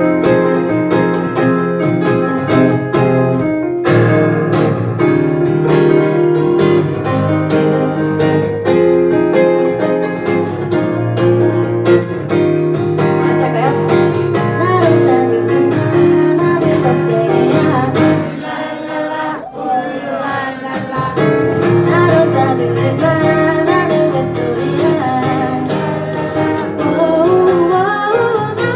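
Acoustic guitar strummed in steady chords, with a sung melody gliding over it in the later part. The playing thins out briefly in the middle before picking up again.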